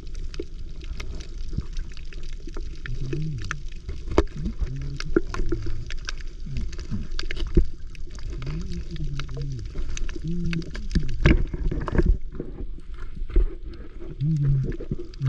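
Underwater sound on a shallow reef: dense crackling clicks, with short muffled low voice-like sounds every few seconds.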